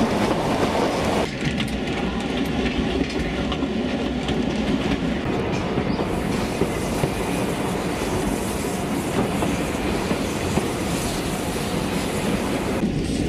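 Steam-hauled 891 mm narrow-gauge train running, heard from the carriages: steady rumbling running noise with wheels clacking over the rail joints.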